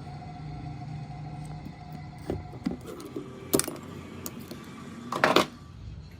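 Metal parts and tools clinking and knocking against each other several times, with a sharp cluster of clanks about five seconds in. A steady machine hum underneath fades away about two seconds in.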